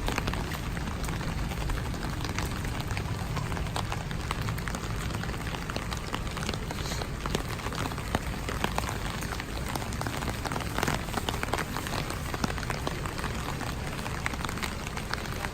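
Steady rain falling, with a dense patter of individual drops ticking close by over a low rumble.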